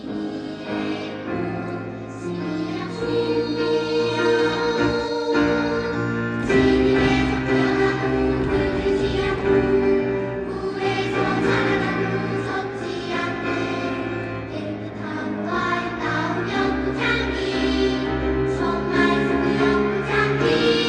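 Children's choir singing a song in held notes, growing louder about six seconds in.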